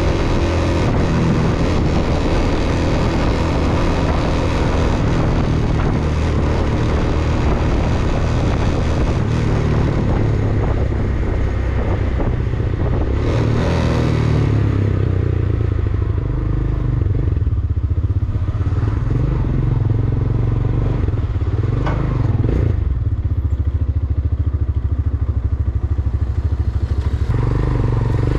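Vento Alpina 300 motorcycle engine running while being ridden, a steady engine note with road and wind noise; the upper part of the sound thins out about halfway through and fills out again near the end.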